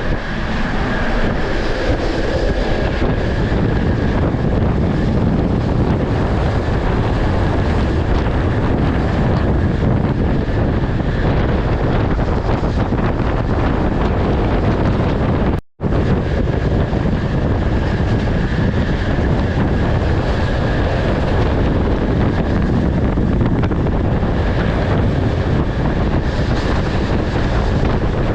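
A moving passenger train: steady rush of running and rolling noise with wind buffeting the microphone. The sound cuts out for an instant about halfway through.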